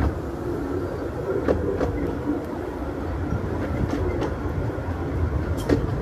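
A 15-inch-gauge miniature railway train running, heard from inside a passenger coach: a steady rumble of wheels on rail, with occasional sharp clicks as the wheels pass over rail joints.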